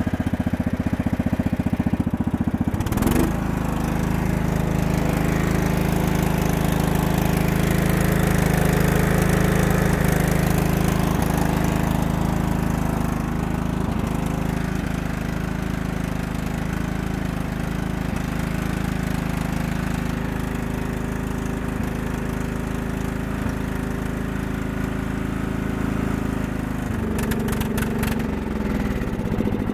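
The Kohler engine of a Yard-King riding mower runs after a cold start. About three seconds in it speeds up to a steady higher speed and holds there. Near the end it slows back down to a rough, pulsing idle.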